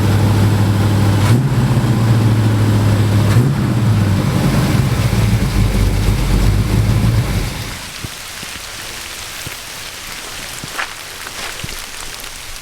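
Camper propane furnace running: a loud low hum that shifts pitch a couple of times over a rushing, uneven burner flame, the inconsistent flame of a furnace that has not run in about a year. About seven seconds in the hum drops away, leaving a softer rushing with a few faint clicks.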